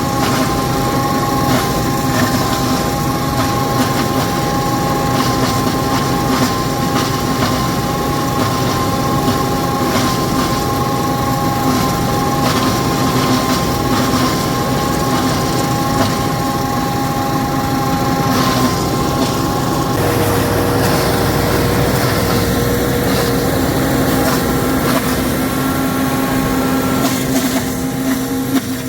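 Feed grinder running steadily under power, with a constant machine hum; its tone changes about twenty seconds in.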